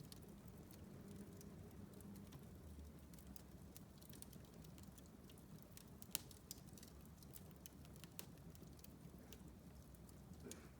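Wood fire in a fireplace crackling softly, with scattered small snaps and a sharper pop about six seconds in.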